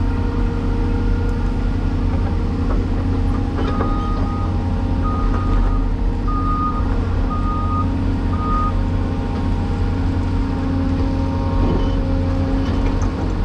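Cat 336E excavator's diesel engine running steadily, with a backup alarm beeping five times, about a second apart, in the middle of the stretch.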